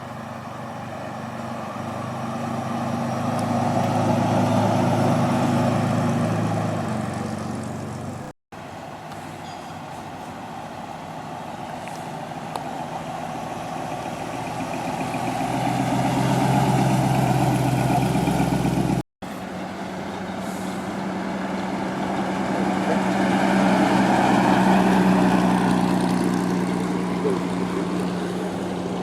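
Car engines running as vehicles drive slowly past, three times, each one swelling louder and then fading away.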